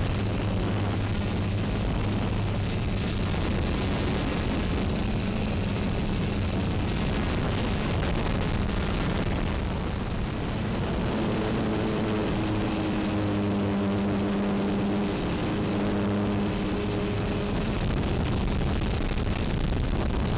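X380 quadcopter's propellers humming under rough wind noise on the microphone. The hum shifts in pitch from about a third of the way in until near the end, as the motors work against the gusts.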